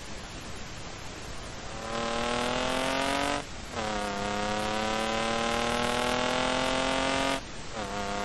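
Engine-swapped BMW E28 accelerating hard on track, its engine note climbing through the revs. It is cut by two quick upshifts, about three and a half seconds in and near the end, each dropping the pitch before it climbs again. It starts after a couple of seconds of steady wind and road rush.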